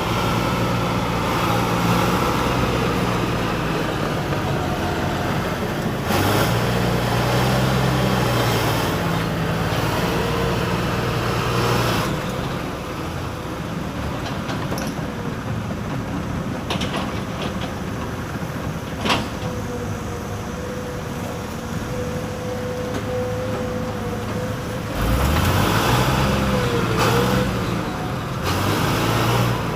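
Excavator's diesel engine running and working, its pitch and loudness rising and falling as the machine moves logs. A thin steady whine runs through the middle, and there is a single sharp knock a little past halfway.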